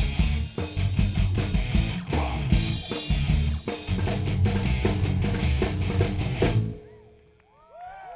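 Live rock band with drum kit, bass and electric guitars playing the instrumental close of a song, stopping abruptly near the end, followed by a few faint rising-and-falling whoops.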